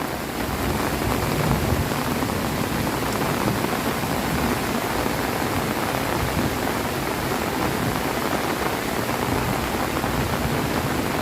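Heavy rain falling steadily, an even, dense noise with no let-up.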